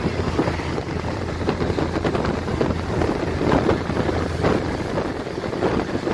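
Passenger train running at speed: a steady rumble from the moving carriage, with wind buffeting the microphone at the open window.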